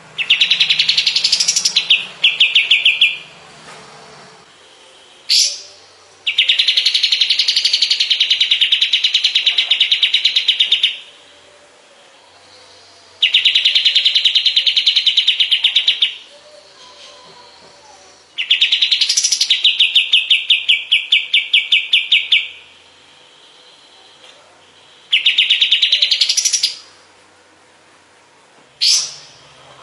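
Kapas tembak bird singing: loud, rapid trilled phrases a few seconds long, several opening with a quick rising sweep, repeated after short pauses, with two brief rising notes between them.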